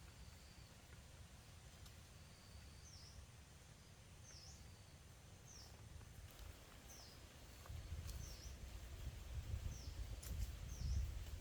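A forest bird calling over and over, short high notes that dip and rise, roughly one every second or so. Under it runs a low rumble that grows louder about eight seconds in.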